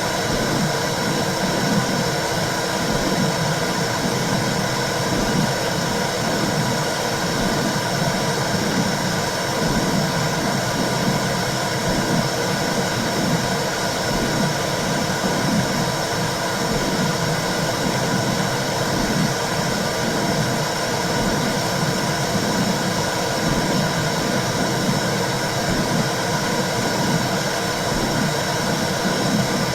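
Womb sound for calming babies: a steady low whooshing noise with a soft, uneven pulsing in its low end.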